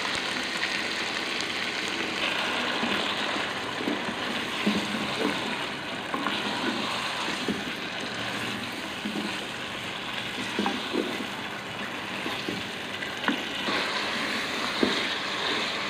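Chicken masala with freshly added tomato paste sizzling as it fries in oil in the pot, being stirred, with a steady sizzle and scattered light scrapes and knocks of the spoon. This is the bhuna stage, frying the masala until the oil separates.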